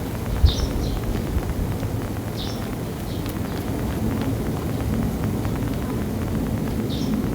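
A sparrow giving short single chirps, three times about two to four seconds apart, over a steady low rumble. A brief thump comes about half a second in.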